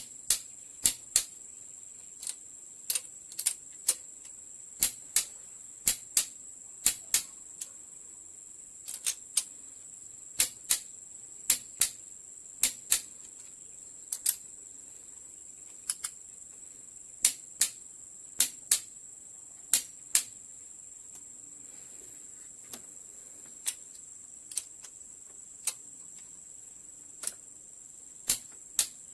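Sharp metallic clicks from hand tools working on an engine, coming singly or in pairs at uneven intervals of about one or two a second, over a steady high-pitched hiss.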